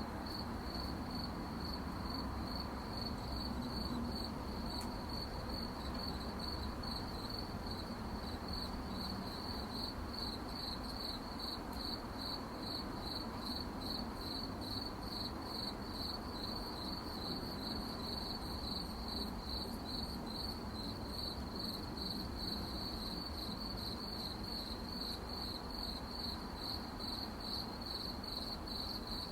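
Crickets chirping at night: one high note repeated in a steady, even pulse, over a faint low background hiss.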